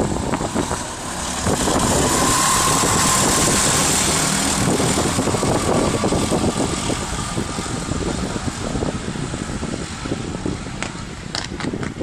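Go-kart engines running on a track, with one engine note swelling briefly about two seconds in.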